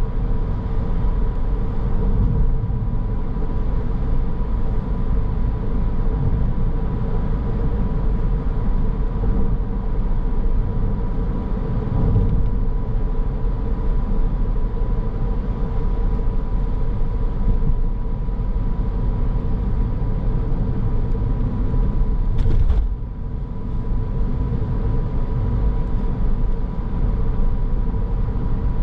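Car driving, with steady road and engine rumble and a constant hum heard from inside the car. A single sharp click comes about three-quarters of the way through, after which the noise briefly drops.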